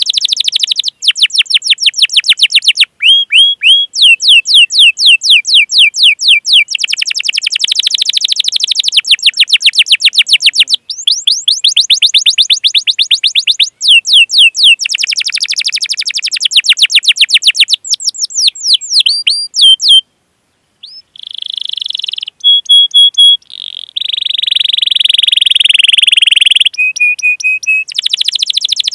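Domestic canary singing: long runs of rapid chirping notes, each sweeping down in pitch, repeated several times a second with short breaks. After a brief pause about two-thirds of the way through come buzzier rolling trills.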